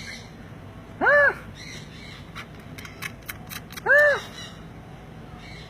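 A bird giving two short, cat-like meowing calls, each rising then falling in pitch, about a second in and again about four seconds in. Faint clicks are heard between them.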